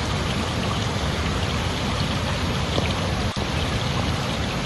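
Steady rushing of flowing water, with a momentary dip a little over three seconds in.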